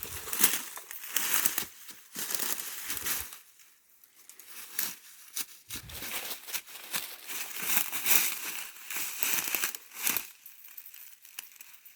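Irregular rustling and crunching of dry leaves and brush, in uneven bursts with short quieter gaps.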